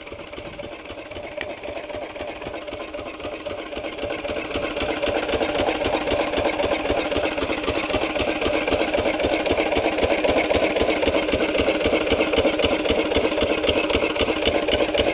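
Antique 8 hp diesel engine running steadily with a rapid, even firing beat. It grows louder over the first few seconds, then holds level.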